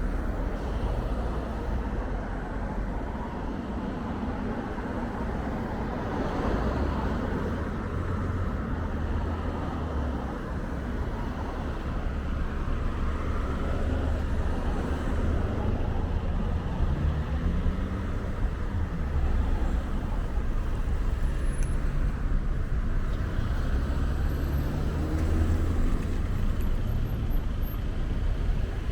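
A motor vehicle running, a steady low rumble of road and engine noise, with a few faint tones that rise and fall in pitch in the second half.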